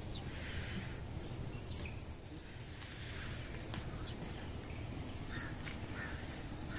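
A few short bird calls over a steady low background rumble.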